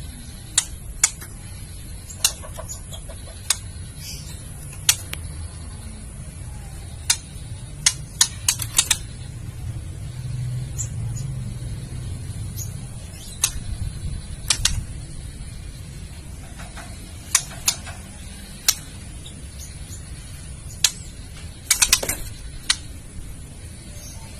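Female white-rumped shama giving its kretekan call: sharp dry clicks, some single and some in quick clusters, at irregular intervals over a low steady hum.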